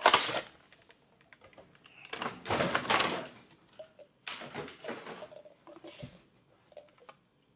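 Handling of a Funko Pop figure's cardboard box and plastic packaging: several short rustling scrapes and light knocks, with a sharper knock about six seconds in.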